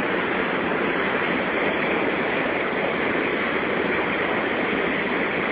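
Falling water of the Santo Antônio waterfall rapids, an even, unbroken rush at a steady level.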